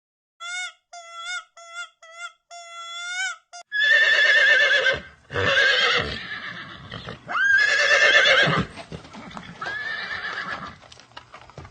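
Horse whinnying four times from about four seconds in: loud, high, quavering calls about a second each. Before that come several short, high, even-pitched cries from another animal.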